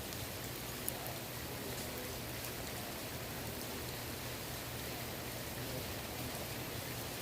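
Rain falling on a swimming pool: a steady even patter of drops on the water, with scattered small drip ticks and one sharper tick about a second in.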